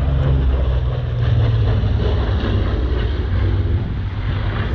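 Douglas A-26 Invader's twin Pratt & Whitney R-2800 Double Wasp radial engines droning loudly as the aircraft flies past, a steady low rumble.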